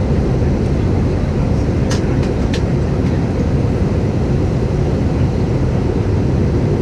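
Steady low rumble of airflow and engine noise inside the cabin of an Airbus A318-111 on approach, with a few short faint clicks about two seconds in.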